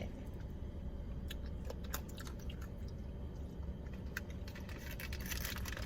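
Steady low rumble of a car heard from inside the cabin, with scattered small clicks and rustles over it.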